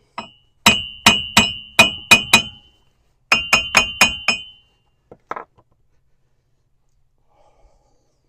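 A hammer tapping lightly on a steel wheel hub and bearing assembly to seat it on the axle: two quick runs of sharp metallic taps, each ringing briefly, then a couple of faint taps.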